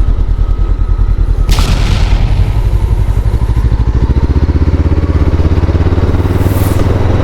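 Honda CBR500R's 471 cc parallel-twin engine running under way, with a steady low pulsing throughout. Two short rushes of noise come in, about a second and a half in and again near the end.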